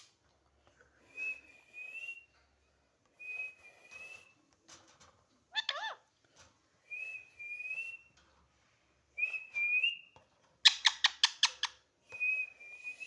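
Pet parrot whistling one short, slightly rising note five times over, with a single gliding squawk between them and a quick run of harsh squawks late on.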